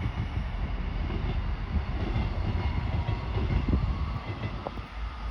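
Airliner's engines running up to takeoff power: a steady loud rumble with a faint whine slowly rising in pitch as they spool up for the takeoff roll.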